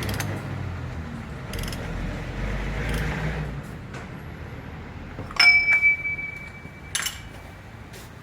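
Metal tools and parts handled during car oil-change work: a low rumble at first, then a sharp metallic clink about five seconds in that rings on briefly, and another clink near the end.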